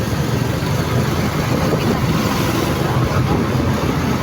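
Motorcycle riding along: steady engine and road noise with wind rushing over the microphone.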